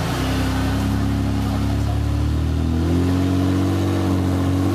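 Trial truck's engine running hard under load, its pitch rising a little about halfway through and then holding steady.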